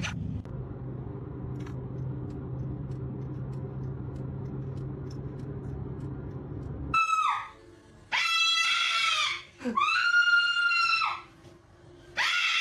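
A steady low hum for about seven seconds, which cuts off suddenly; then a parrot screams loudly, four long, drawn-out calls about a second each.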